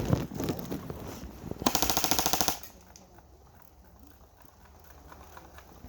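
Airsoft gun firing a rapid full-auto burst just under a second long, about two seconds in, after a single sharp snap at the start.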